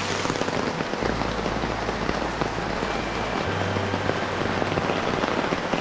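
Heavy rain falling, pattering densely on the umbrella held just over the microphone.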